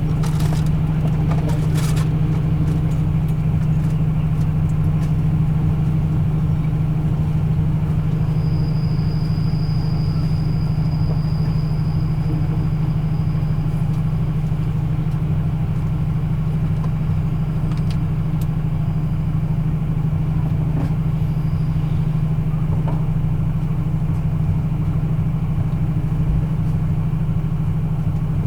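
Diesel engine of a standing passenger train running at a steady idle, a deep unbroken drone. A faint high whine joins in for several seconds starting about eight seconds in.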